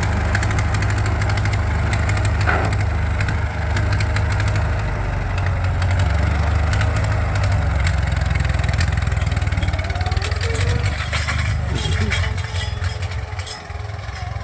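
Ford 9N tractor's four-cylinder flathead engine running steadily under way, a low rumble that drops away near the end.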